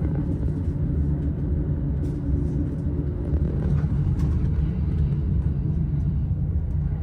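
Steady low rumble of a commuter train running on the track, heard from inside the carriage.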